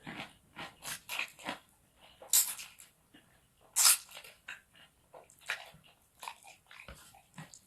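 Close-miked eating of fried rice stick noodles: a steady run of wet chewing, smacking and mouth clicks, with two louder smacks about two and a half and four seconds in.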